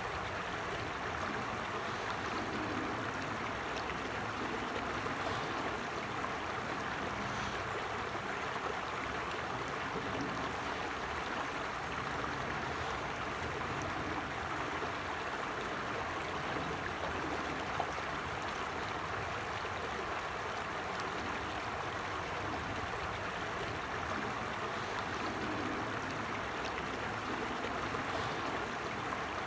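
Creek water flowing steadily, an even rushing and gurgling that holds at one level throughout.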